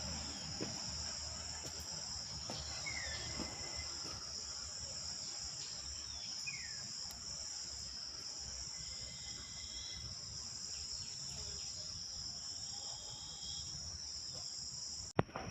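Insect chorus of crickets, a steady high-pitched drone, with a few short falling chirps over it.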